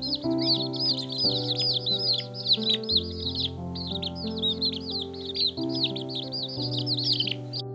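A crowd of newly hatched chicks peeping all at once, a dense chorus of high, falling peeps, over background music with held chords. The peeping cuts off suddenly near the end.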